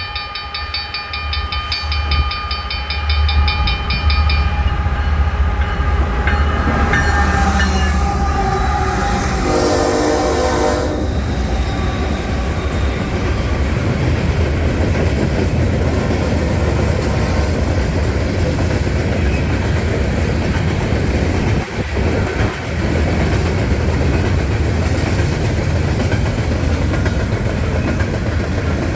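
Canadian National freight train approaching and passing, its locomotive horn sounding with a short loud blast about ten seconds in. The train then rolls by with a steady heavy rumble and the clatter of wheels on rail joints.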